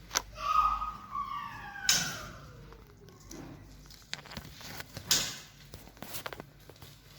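Young white-rumped shama giving a whistled call whose notes glide downward over the first three seconds. Sharp knocks and clicks come in between, the loudest about five seconds in.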